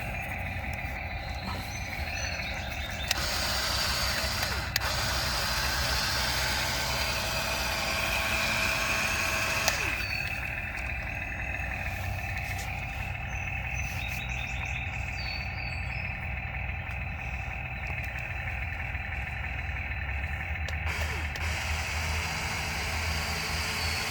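Radio-controlled toy excavator running: a steady low mechanical drone, with a higher whine rising over it for a few seconds in the middle and again near the end.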